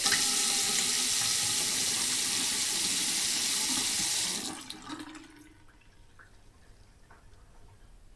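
Sink faucet running at full flow into the basin for about four seconds, then shut off, the flow dying away over about a second. Afterward only faint small water sounds remain.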